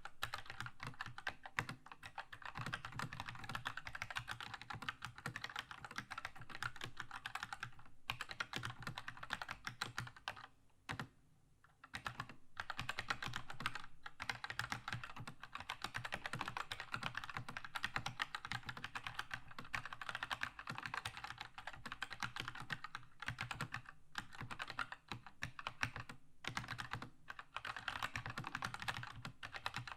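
Fast continuous typing on a Keychron K2 mechanical keyboard with red linear switches, a dense stream of key clacks that breaks off for about a second near the middle.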